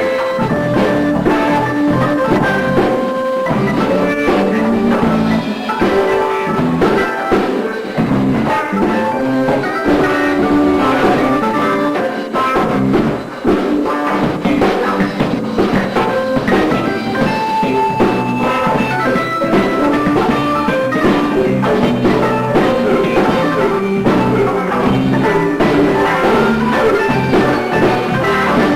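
Live band playing an instrumental jam in A minor, with electric guitar over a drum kit groove.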